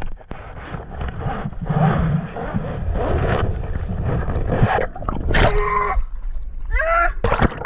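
Underwater water noise: rushing, gurgling water against a dive camera as the spearfisher moves while fighting a speared wahoo. Near the end, two short muffled shouts as the camera comes up to the surface.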